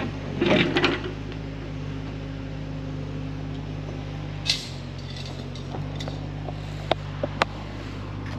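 Large JCB excavator's diesel engine running steadily, its note dipping and shifting for about a second halfway through. A sharp click comes about halfway and a few light ticks near the end.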